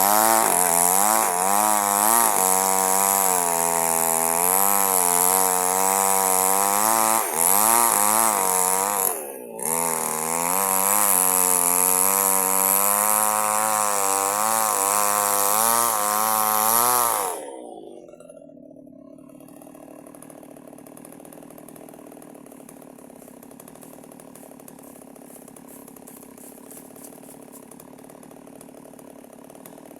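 Small chainsaw cutting durian wood, its engine pitch rising and falling under load, with a brief dip about nine seconds in. About 17 seconds in the engine winds down, leaving only a faint steady hum.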